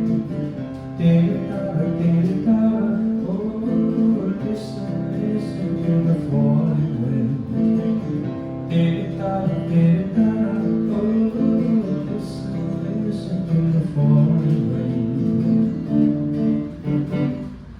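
Acoustic guitar playing an instrumental outro, strummed and picked chords changing every second or two.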